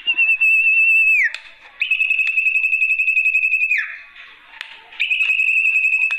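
Sertu (zepo) bird lure call: long, clear whistled notes, each held for about two seconds with a fine rapid waver and a quick downward slide at the end. Three notes in a row with short gaps.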